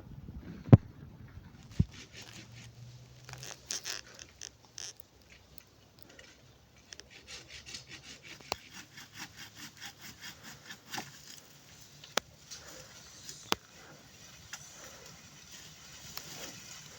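Rhythmic back-and-forth rasping strokes, about two a second through the middle, with sharp knocks or clicks scattered through; the loudest knock comes about a second in.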